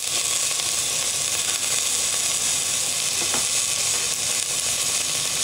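Onions, garlic, green chillies and tomato pieces frying in oil in a steel pan: a steady sizzle, with one faint tap about three seconds in.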